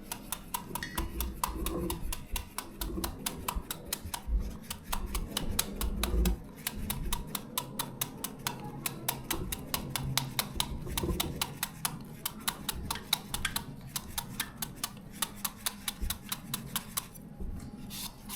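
Kitchen knife striking a green papaya again and again, even sharp chops several a second, hacking it into strips for papaya salad.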